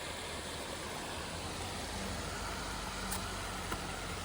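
A motor vehicle's engine idling: a steady low hum under an even hiss.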